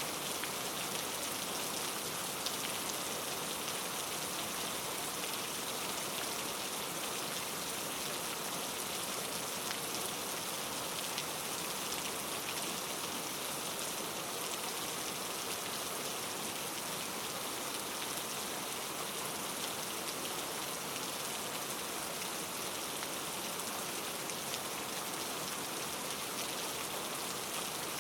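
Steady rain falling, with a dense patter of drops on a surface.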